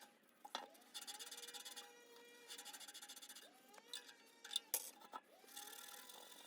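Faint rasping strokes, three of them, each under a second long, with a few sharp clicks in between.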